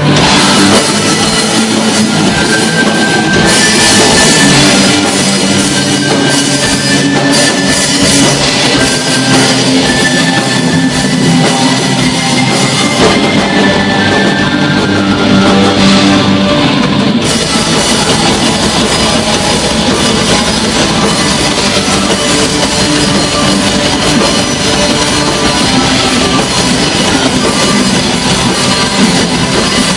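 Black metal band playing live: distorted electric guitars with held melodic notes over a drum kit, loud and dense.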